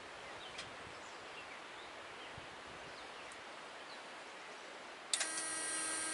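Quiet outdoor background with a few faint bird chirps. About five seconds in, a steady high-pitched whine made of several tones starts suddenly as the 1975 International fire engine is being started, before its engine turns over.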